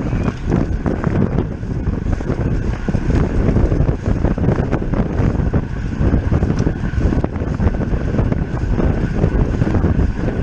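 Heavy wind rumble on the microphone of a camera riding on a racing road bicycle at speed, with faint ticking and rattling from the bike.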